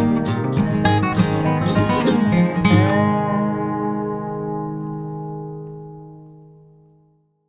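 Acoustic guitar background music, strummed and plucked, ending on a last chord about three seconds in that rings out and fades away.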